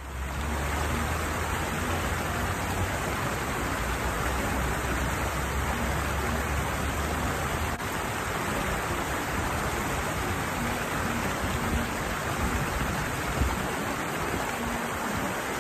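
Steady rushing of water falling over a small weir cascade. A low rumble underneath stops abruptly about eight seconds in.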